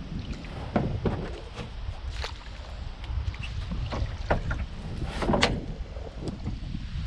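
Wind rumbling on the microphone in a canoe, with irregular small knocks and taps against the hull, the loudest about five seconds in.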